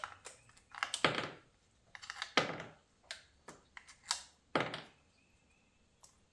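Irregular clicks and light knocks of hand tools and small metal parts being handled on the transmission case, about ten in all, some with a short ring.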